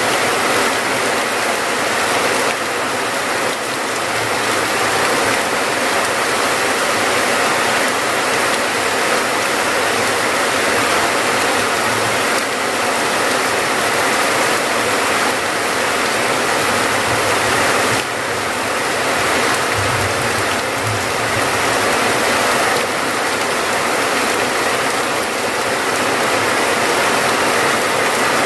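Steady rain falling, an even, dense hiss that never lets up, with a couple of brief low thumps about two-thirds of the way through.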